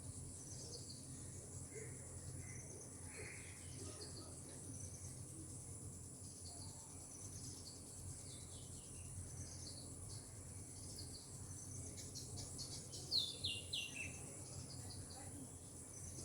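Birds chirping over a steady high-pitched insect drone. A little past two-thirds of the way in, one bird gives a quick run of falling notes, the loudest sound here.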